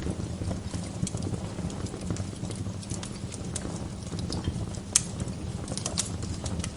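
Wood fire crackling in a fireplace: a constant run of small snaps and pops over a low rumble of burning, with two sharper, louder pops about five and six seconds in.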